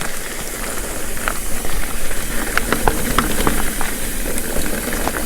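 Mountain bike rolling along a dirt singletrack: a steady rush of tyre and wind noise, with scattered clicks and rattles from the bike.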